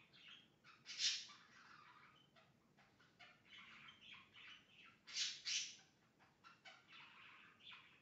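Pet birds chirping and calling, with a loud call about a second in and two more in quick succession just after five seconds.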